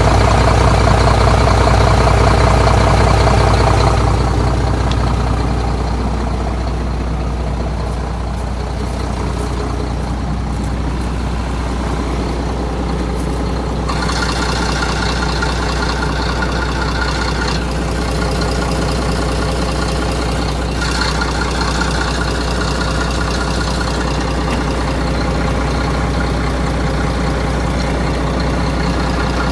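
Renault Magnum 430 truck's diesel engine running. It is louder and fuller for about the first four seconds, then settles into a steady idle.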